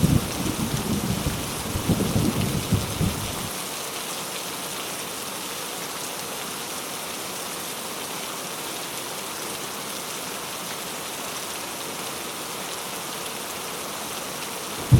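Steady heavy rain with a low rumble of thunder that dies away about three seconds in, leaving only the even hiss of the rain.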